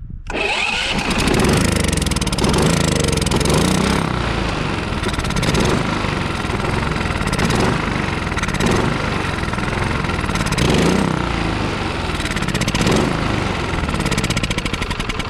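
Westinghouse iGen4500DF inverter generator's gasoline engine catching on starting fluid and running loud and rough, its speed surging up and down every second or two. It runs on the fluid, which the owner takes as a sign that the problem is probably the stale fuel.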